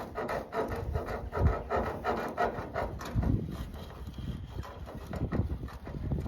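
Irregular rubbing and scraping from a new bee smoker being handled and its bellows worked, with a few dull knocks.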